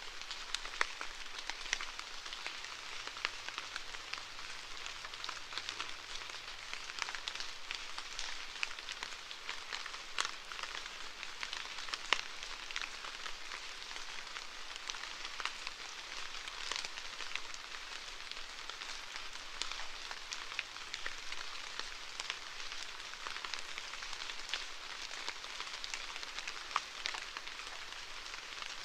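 Steady rain pattering on a surface, a continuous hiss with many individual drop ticks scattered through it.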